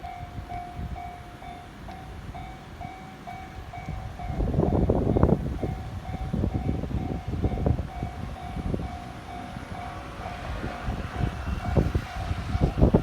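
A Japanese level-crossing alarm rings steadily at about two dings a second. About four seconds in, a JR E231-series electric train starts passing through the crossing: a loud rumble with a rapid, uneven clatter of wheels on the rails, under the ringing bell.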